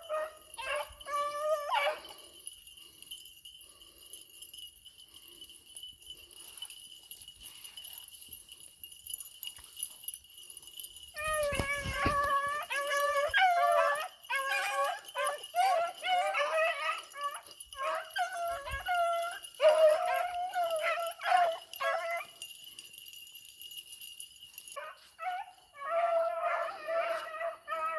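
Pack of Bramlett-bred beagles baying on a rabbit's scent, several voices at once in bursts: briefly at the start, a long stretch from about eleven seconds in, and again near the end. The hounds are giving tongue on a rabbit's track.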